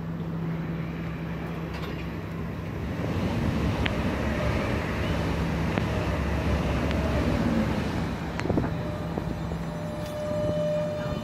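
DB Regio electric multiple unit moving off along the platform: a steady low hum with rumble that swells about three seconds in. Motor tones glide in pitch, then settle into a steady higher whine near the end, with a few light clicks.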